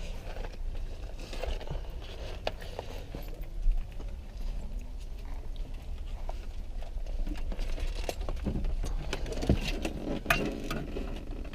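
Scattered clicks, knocks and rattles of small objects being handled and moved about while rummaging through a car's interior, with a few louder knocks near the end.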